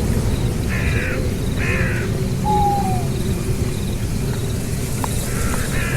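Two short, harsh animal calls about a second apart, a further call near the end, over a steady low rumble.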